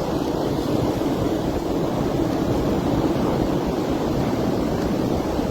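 Steady rushing wind of a snowstorm, low-pitched and even, blowing across the microphone.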